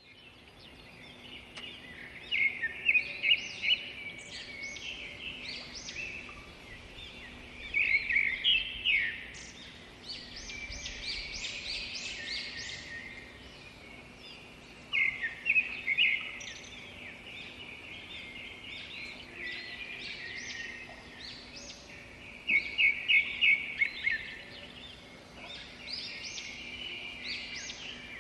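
Several birds calling and chirping, with four loud runs of quick repeated notes spaced through the stretch, over a faint steady hum.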